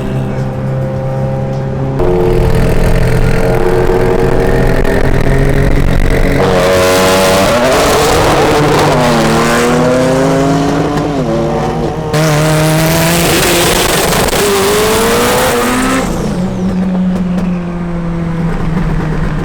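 Turbocharged cars accelerating hard at full throttle. The engine pitch climbs, drops sharply at a gear change and climbs again, with loud rushing wind and exhaust noise through the middle of the pull.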